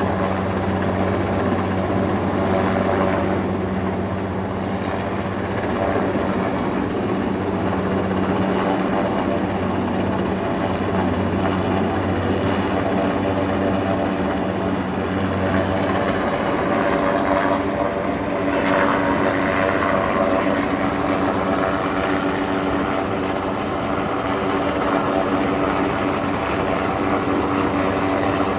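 Helicopter running steadily, a continuous engine and rotor drone with a set of steady tones; the low hum shifts pitch about halfway through.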